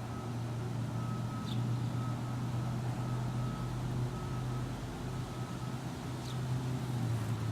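Steady low mechanical hum, with two brief high chirps from a bird, one about a second and a half in and one near the end.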